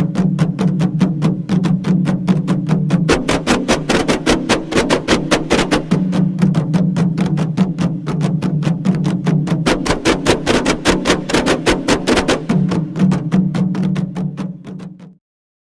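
Kompang hand-drum ensemble playing fast interlocking beats, several strikes a second, over a steady low drone, stopping abruptly near the end.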